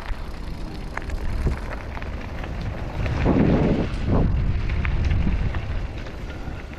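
Footsteps and rustling vegetation as someone walks through woodland undergrowth, with a low rumble of wind and rubbing on a rucksack-mounted camera. The rustling is loudest about three to five seconds in, with scattered snaps and knocks.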